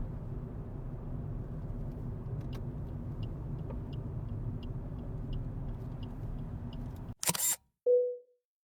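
Car running on the road, heard as a steady low noise, with faint regular ticking at about one and a half ticks a second. About seven seconds in this cuts to a loud, short hiss-like burst, then a short ringing tone that fades, then silence.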